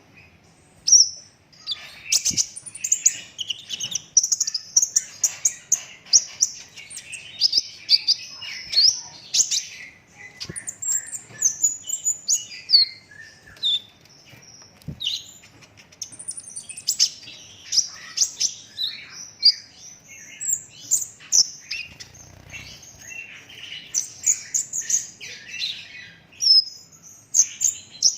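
A young Van Hasselt's sunbird (kolibri ninja) in green plumage singing full out: a dense, continuous run of rapid high chirps and short trills with only brief pauses.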